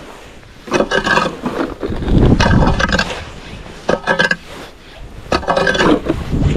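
Repeated scraping strokes, about one a second: a tool scraping snow and ice.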